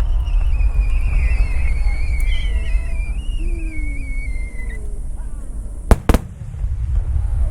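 Fireworks display: a continuous low rumble of shell bursts, with a high whistle wavering and gliding downward over the first few seconds. Two sharp cracks come about six seconds in.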